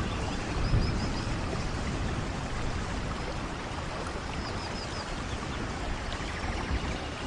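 Steady rain falling, an even hiss throughout, with a brief low rumble of thunder about a second in.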